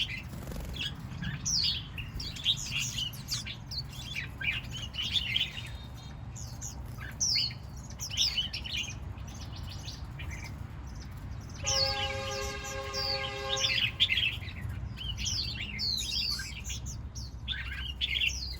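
Several small birds chirping and twittering, quick high notes that fall in pitch, overlapping and repeating. About twelve seconds in comes a held, buzzy tone lasting roughly two seconds, over a steady low rumble.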